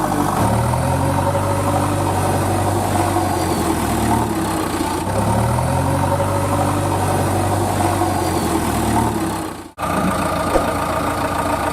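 Diesel engine of a tractor or backhoe loader idling steadily. The sound cuts out for an instant near the end, then resumes.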